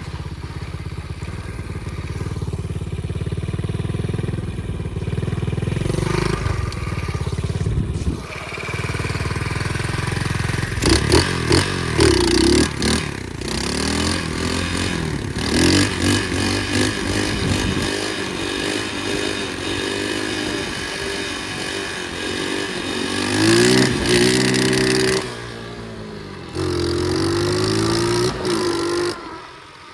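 Flywing pit bike's small engine running under way, its revs repeatedly climbing and dropping as it is ridden through the gears. The engine pulls back to a lower, quieter note about 25 s in, picks up again a second or so later, and eases off just before the end.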